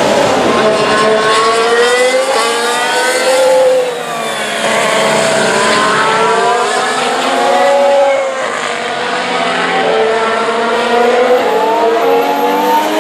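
2017 Formula 1 cars' 1.6-litre turbocharged V6 engines running at racing speed, several at once. Their pitches climb as they accelerate through the gears and fall away as each car passes, with a short drop in level about four seconds in.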